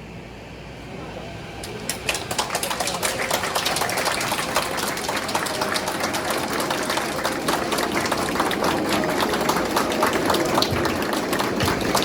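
A dense, loud clatter of many rapid clicks from many sources at once, starting about two seconds in, over the murmur of a crowd.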